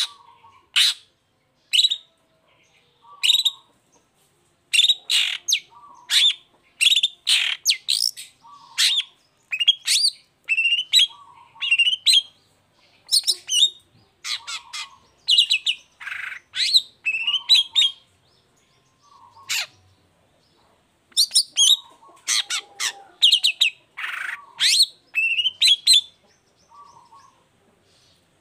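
Long-tailed shrike (cendet) singing loudly: a rapid string of short, sharp chirps and harsh notes with brief pauses between phrases, a few of them rough and scratchy.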